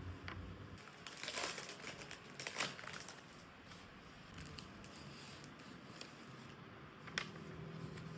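Paper crinkling and rustling as it is handled, in short faint bursts: about a second in, again around two and a half seconds, and once more near the end.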